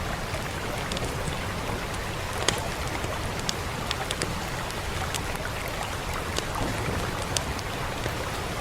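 Steady rain hiss with a low rumble underneath, and a wood fire crackling with sharp, scattered pops.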